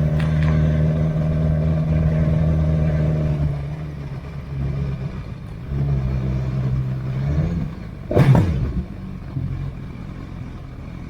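Motorcycle engine running at a steady speed, easing off about three and a half seconds in and pulling again a little later. About eight seconds in, a vehicle passes close by in a short, loud rush that falls in pitch.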